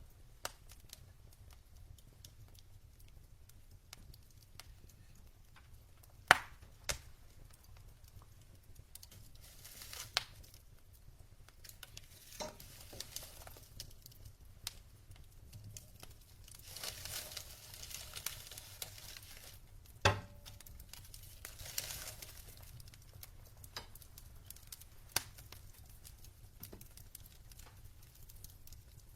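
Burning logs in a fireplace crackling, with irregular sharp pops; the loudest come about six seconds in and about twenty seconds in. Stretches of soft hissing rise and fade in between.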